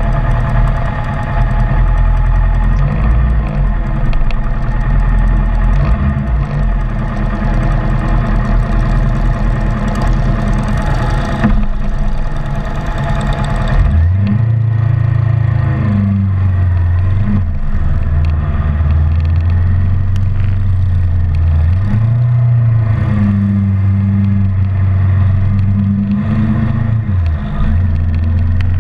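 Kawasaki Ninja 650R parallel-twin motorcycle engine heard from the rider's position. It rumbles at low speed in traffic for about the first half, then pulls away about halfway through, and its note dips about three times as it shifts up through the gears.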